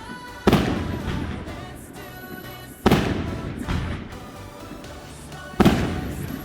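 Aerial firework shells bursting: three loud bangs a couple of seconds apart, each dying away in a long tail, over music.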